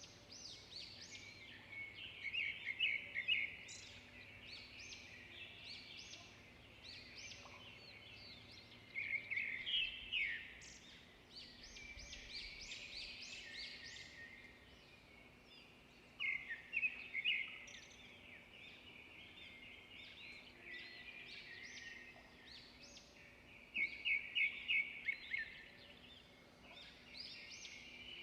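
Wild birds singing and calling, with a few loud bursts of quick repeated notes about every seven seconds over softer chirping.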